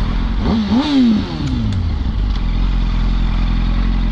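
Motorcycle engine revved twice in quick blips about half a second in, its pitch falling back within a second, then running at a steady low idle.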